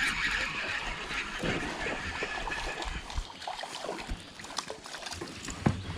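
Running river water around a kayak, fading about halfway through, with small splashes and knocks from the boat and fishing gear.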